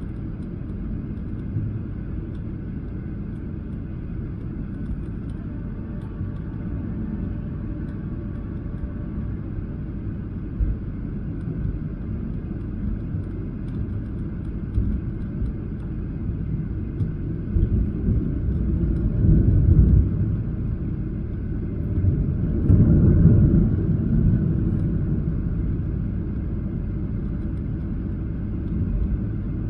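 Airliner cabin noise on a Boeing 737-800: a steady low rumble that swells in two louder surges about two-thirds of the way through.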